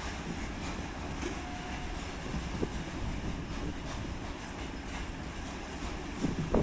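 Arriving freight train rolling along the track: a steady rumble of the wagons, with occasional clicks from the wheels.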